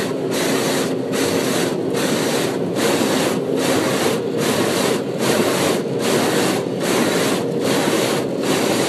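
Automated car wash machinery working on the car, heard from inside the cabin: a loud, steady rushing and scrubbing that swells and dips evenly about once every 0.8 seconds, over a low machine hum.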